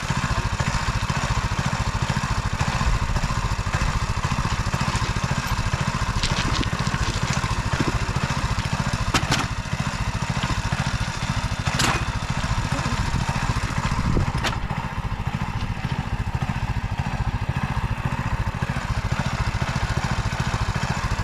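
Small petrol engine of a Cambodian bamboo train (norry) running steadily as it travels along the track, with a few sharp clacks.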